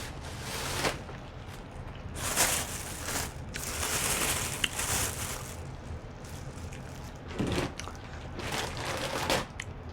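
Close-miked eating and handling of seafood boil: a few noisy crackling, rustling bursts from bites and from food and wrappings being handled.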